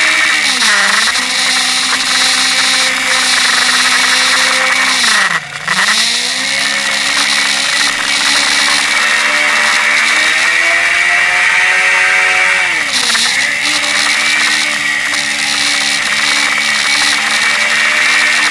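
Suzuki GSX-R K5 sportbike's inline-four engine running under way, its note holding steady but dipping sharply three times, about a second in, near the middle and about two-thirds through, as the throttle comes off and back on. Heavy wind rush hisses over the bike-mounted microphone throughout.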